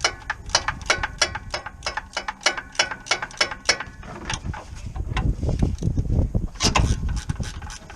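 Ratchet wrench clicking in a steady rhythm, about four clicks a second, as a fastener is worked. After about four seconds come low rumbling knocks, then a quicker run of clicks near the end.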